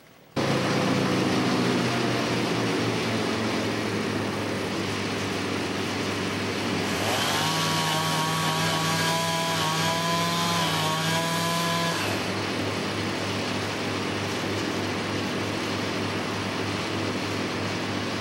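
Chainsaw running, cutting in abruptly, over a steady engine drone; about seven seconds in the saw is held at full throttle for some five seconds, then drops back.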